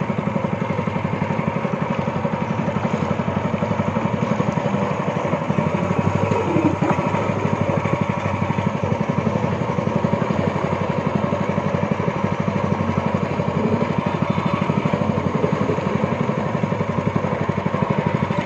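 Speedboat's outboard motor running steadily under way, a constant engine drone with a fast, even firing rhythm.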